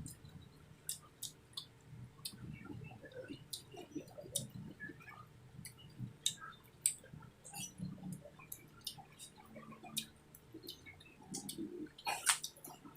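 A person eating close to the microphone: chewing and wet mouth smacks with many scattered sharp clicks. There is a louder, noisier burst near the end.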